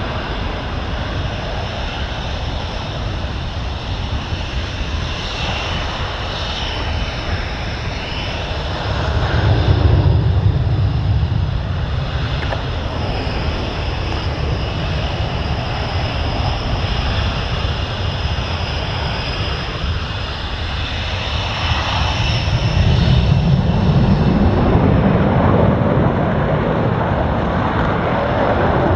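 Military fighter jet engines running, with a steady high turbine whine over a noisy rumble. The rumble swells louder about ten seconds in and again after about twenty-two seconds.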